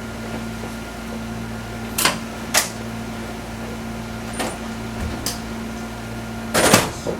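Steady electrical hum inside the cab of a Fukui Railway 200-series train, broken by a few sharp clicks and knocks, the loudest cluster near the end.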